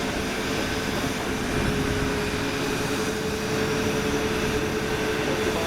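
Jet airliner engines running steadily at low power, a rumble with a steady whine.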